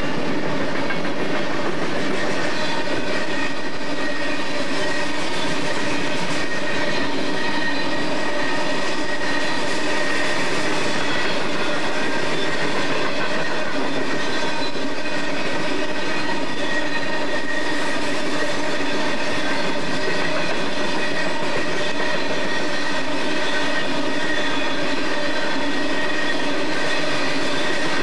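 Loaded-or-empty unspecified coal train's open-top cars rolling steadily past on the rails: a continuous rumble with a few steady ringing tones over it.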